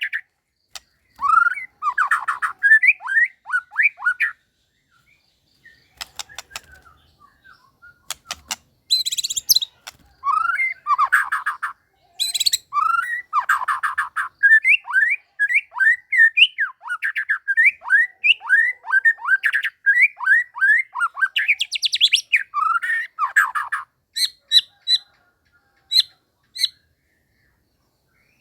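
White-rumped shama (murai batu) singing loud phrases of rapid whistled notes, most sliding downward, broken by short pauses, with a few sharp clicks between phrases and some short high notes near the end.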